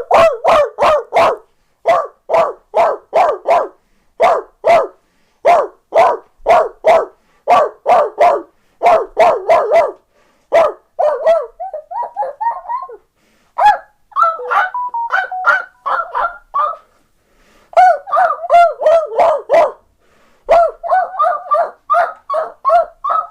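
A man imitating a dog with his voice: quick runs of short, loud barks, three to six at a time with brief pauses between. Midway the barks give way to a stretch of shorter yips that slide in pitch, before the barking runs resume.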